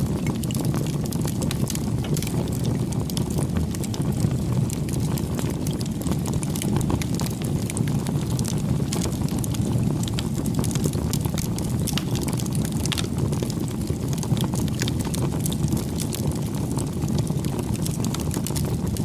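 Campfire burning: a steady low rumble from the fire with frequent small, irregular crackles and pops of burning wood.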